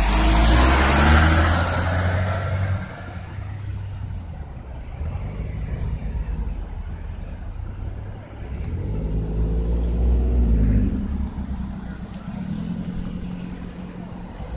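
Motor vehicles passing by on a highway. The first goes by loudly at the start and fades over about three seconds; a second swells and fades with a steady engine hum a little past the middle.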